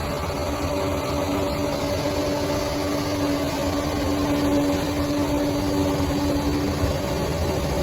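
Bulldozer's diesel engine running steadily, a constant engine note over a low rumble.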